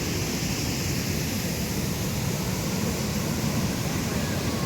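Floodwater pouring through the opened sluice gates of an irrigation tank, a loud, steady rush of falling water.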